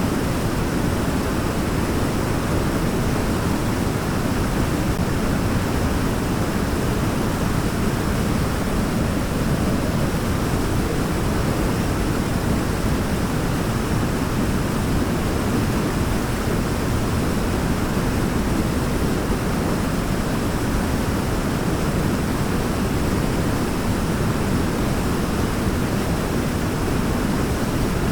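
Waterfall: a steady rush of falling water, strongest in the low range, with no change in level.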